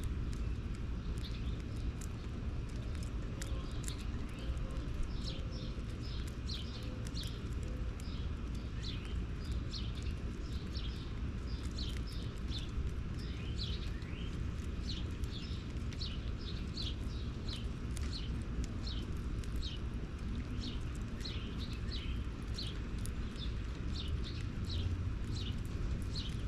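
Small birds chirping: many short, falling chirps in quick succession, over a steady low rumble.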